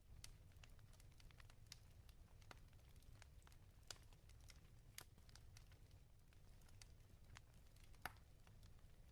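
Fire crackling in a fireplace: quiet, irregular pops and snaps, the sharpest about eight seconds in, over a low steady hum.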